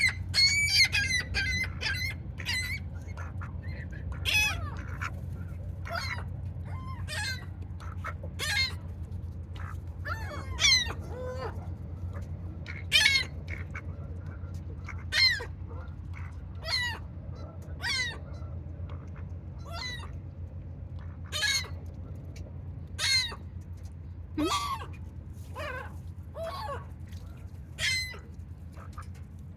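Gulls calling over and over, short high calls that bend in pitch, coming every second or two, over a steady low hum.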